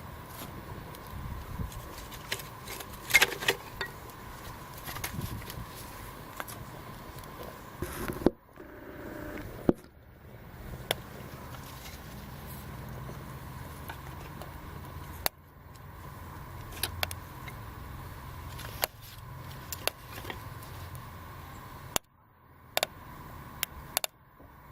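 Bird's-nest tinder bundle burning, with scattered sharp crackles and pops over a steady low hiss; a cluster of louder pops comes about three seconds in.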